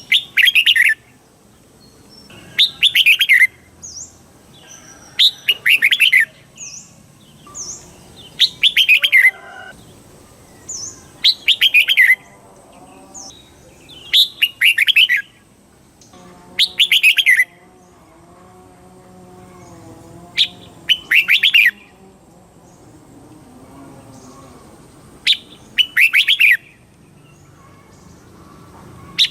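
Red-whiskered bulbul singing: short, loud, bubbling song phrases repeated about every two to three seconds, with brief high sharp notes between them.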